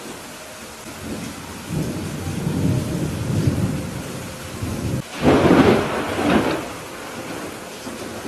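Steady rain with thunder: a low rumble swells about two seconds in, then a louder crash of thunder breaks about five seconds in and fades back into the rain over a second or so.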